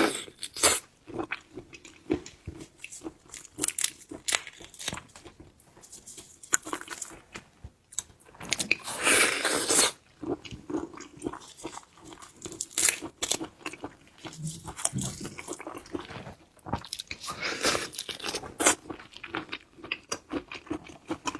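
Close-miked eating of shellfish: a steady run of small crunches, bites and chewing clicks, with two longer, louder noisy stretches, about nine and seventeen seconds in.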